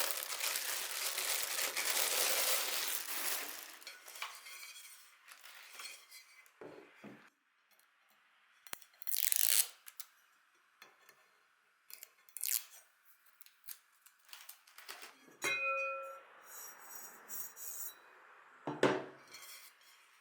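A new rice pot being unpacked: packaging rustling and tearing for the first few seconds, then scattered light knocks and clinks as the pot and its parts are handled, with a short ring about halfway through and a dull knock near the end.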